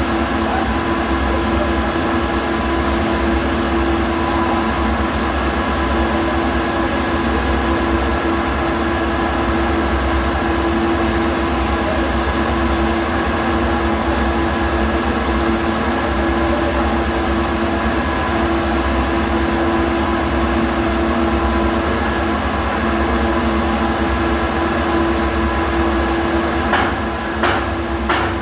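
MIG welder running a continuous bead: a steady buzzing noise with a constant hum, broken by a few sharp clicks near the end as the level dips.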